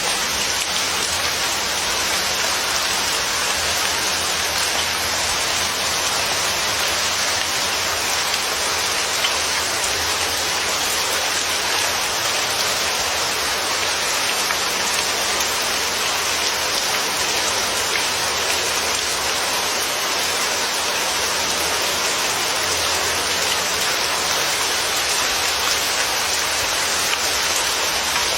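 Steady rain falling on a surface, an even hiss of drops that holds unchanged throughout.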